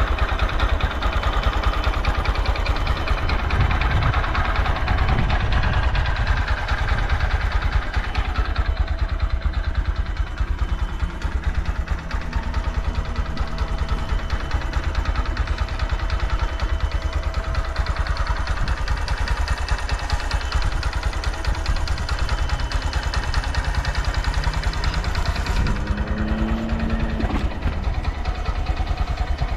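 Honda Grom JC61's 125 cc air-cooled single-cylinder four-stroke engine idling steadily with no abnormal noise. A short rise and fall in pitch comes near the end.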